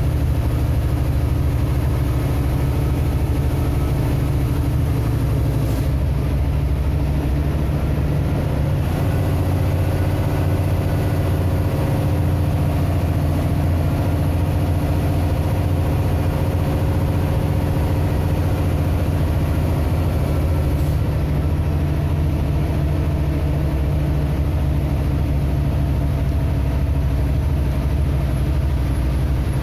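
A vehicle engine running steadily with a deep, low drone, its pitch shifting slightly about nine seconds in.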